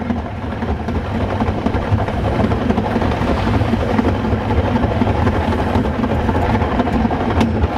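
Metre-gauge train running along the track, heard from inside its rear cab: a steady low drone and rumble.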